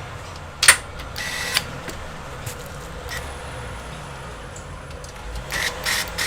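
A sharp click, then a short scraping rattle, and a cluster of similar brief clatters near the end: hard objects being handled and set down, over a steady low hum.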